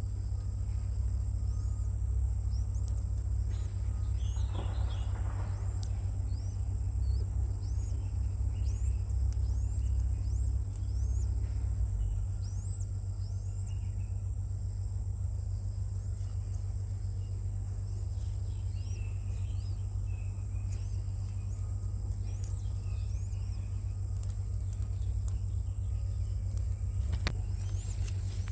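Outdoor ambience: many short, rising bird chirps, a second or so apart, over a steady high-pitched insect drone and a low rumble.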